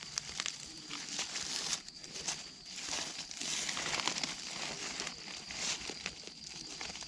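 Dry leaf litter and undergrowth rustling and crackling in irregular bursts as it is disturbed, over a steady high-pitched whine.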